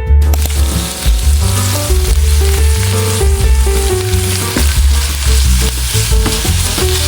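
Food sizzling as it fries in a pan, a dense hiss that starts just after the beginning, with piano background music playing over it.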